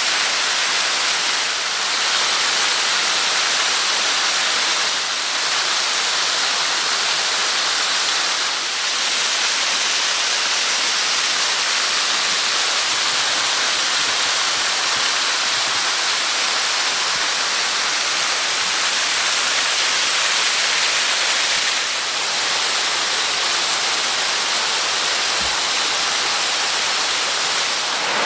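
Steady, loud rush of running water from a mountain stream and waterfall.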